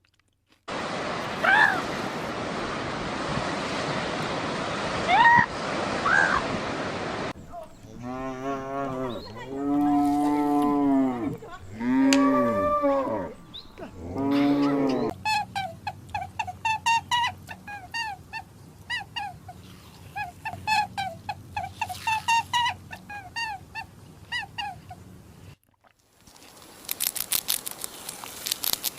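A cow mooing four times in long calls that rise and fall in pitch, in the middle of a string of animal sounds: first a noisy stretch with a few brief gliding chirps, afterwards a long run of quick high chirps, then sharp clicking near the end.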